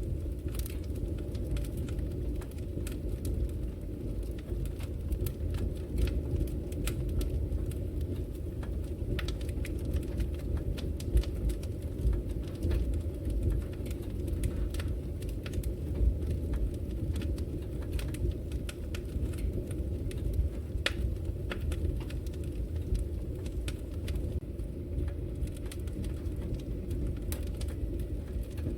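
Wood fire burning in a brick fireplace: a steady low rush of flames with frequent sharp, irregular crackles and pops.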